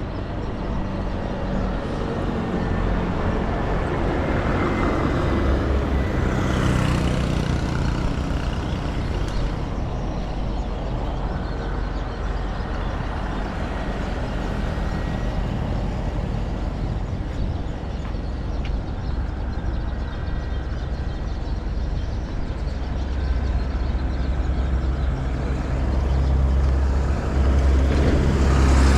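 Street traffic: the steady low running of heavy vehicle engines, louder near the end, with a brief hiss about seven seconds in and another at the end.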